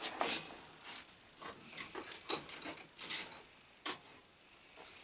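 Small clicks and rustles of hands working wiring parts, with a sharp snap just before the four-second mark as excess material is snapped off.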